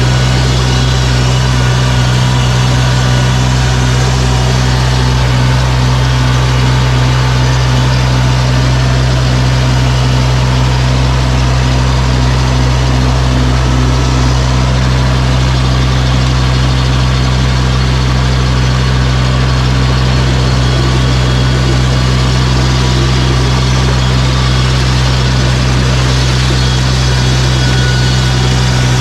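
Tractor engine running steadily with a constant low hum while clearing snow.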